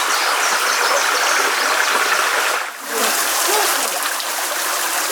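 River water running and splashing steadily, with a brief dip in level about two and a half seconds in.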